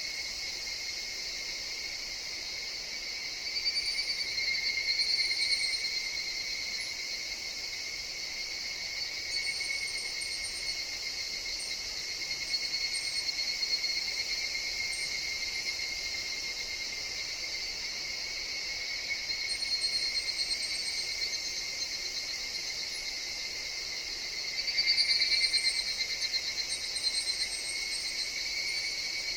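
Higurashi (evening cicadas) calling in a steady, shimmering chorus, with a louder call swelling up twice: about four seconds in and near the end.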